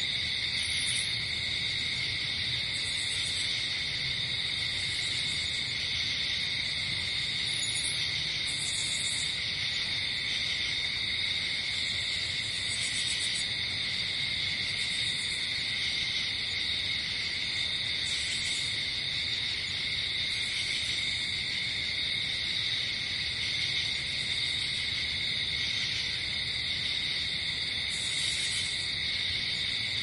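Night-forest ambience: a steady chorus of crickets and other insects, with short, high-pitched pulsing insect calls every two or three seconds.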